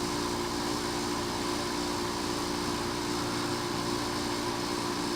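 12,000 BTU Mermaid marine air conditioner running full blast and blowing cold air: a steady hum of several low tones under an even rush of air, unchanging throughout.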